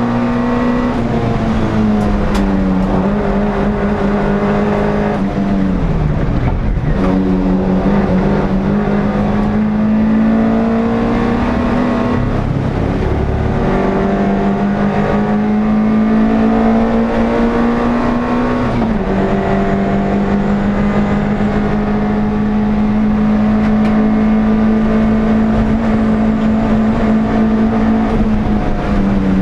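NSU TT race car's air-cooled, rear-mounted four-cylinder engine heard from onboard, running at high revs. Its pitch holds steady for stretches, dipping and climbing back several times: about two seconds in, around six to seven seconds, near thirteen seconds and near nineteen seconds.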